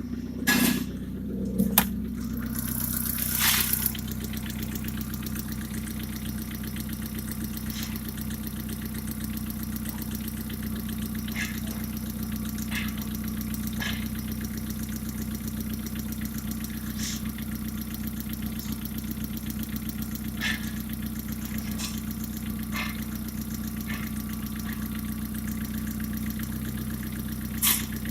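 Opel Vectra B's 1.6-litre 16-valve four-cylinder X16XEL petrol engine starting up, then idling steadily, with a few faint clicks over the idle and a sharper click near the end.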